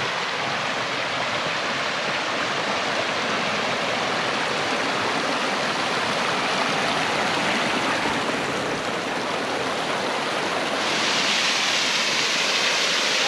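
Water rushing as it starts to flow down the canyon's stream channel from up top: a steady rush that gets louder and brighter about eleven seconds in.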